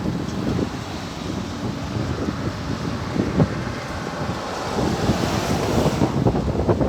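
Strong sandstorm wind gusting and buffeting the microphone, growing stronger near the end.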